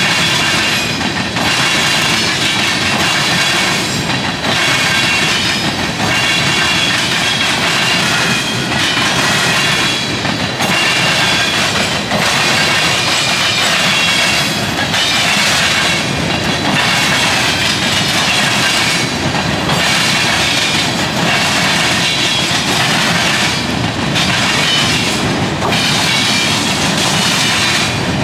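A freight train's tank cars and covered hoppers rolling past, the wheels clattering over a rail diamond crossing in a steady rhythm. A high, steady wheel squeal runs over the clatter.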